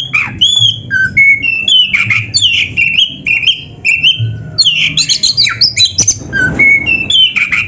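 Oriental magpie-robin (kacer) singing loud, fast and varied: short whistled notes and sweeps broken by harsh rasping calls. The song is packed with "isian", phrases mimicked from other birds.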